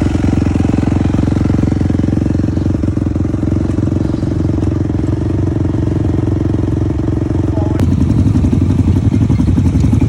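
Small dirt bike engine running steadily. About eight seconds in there is a sharp click, and the engine's pulsing note then grows louder and more distinct.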